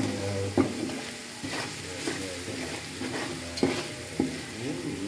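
Chopped onions and garlic sizzling as they fry in oil in a metal pot, stirred with a wooden spoon that knocks sharply against the pot a few times.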